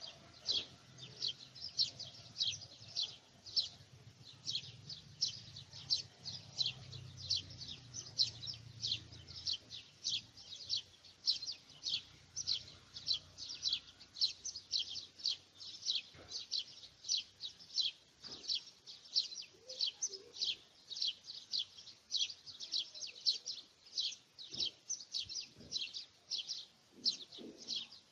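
A bird chirping over and over in an even, unbroken series, about two to three short high chirps a second.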